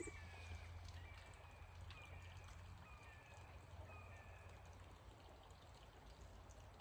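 Faint steady rush of running water with a low hum beneath it. A songbird repeats short falling whistled notes about once a second, stopping a little past halfway.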